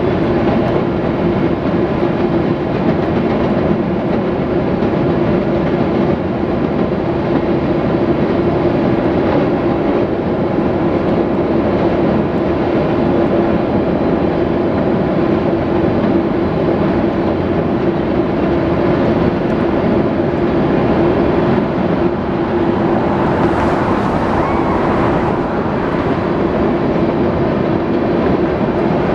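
Freight train's tank cars rolling steadily across a steel bridge: a continuous loud rumble of steel wheels on rail, with one steady droning tone running underneath.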